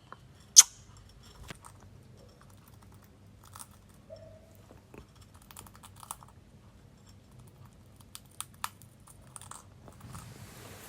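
Green parrot eating: scattered small clicks and crunches of its beak working the food, with one sharper click about half a second in.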